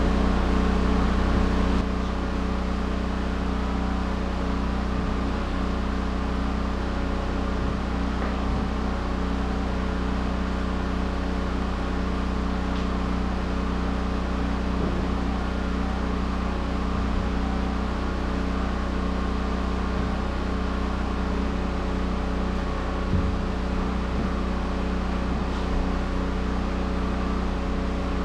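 Steady mechanical drone of a motor or engine running at constant speed, an unchanging low hum with several pitched lines and no rhythm.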